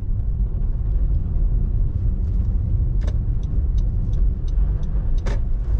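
Car cabin noise while driving over packed, rutted ice on the road: a steady low rumble from the tyres and road, with scattered light clicks and knocks, the sharpest at about three seconds and again near the end.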